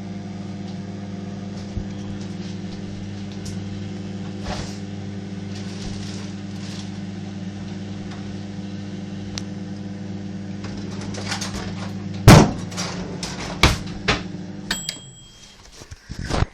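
Microwave oven running with a steady hum while an egg heats inside. Crackling starts about ten seconds in, then the egg bursts with a loud bang, followed by a few smaller pops, and the hum stops near the end.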